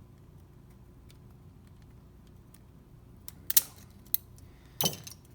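Small metal parts being handled: faint ticks, then a few sharp metallic clicks about three and a half seconds in and a duller knock near the end, as a piston ring is worked over a piston.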